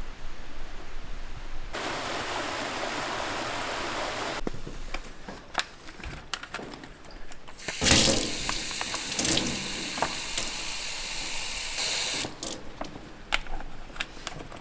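Water running in two spells, a shorter one about two seconds in and a louder one from about eight to twelve seconds in, with scattered knocks and clicks between and after.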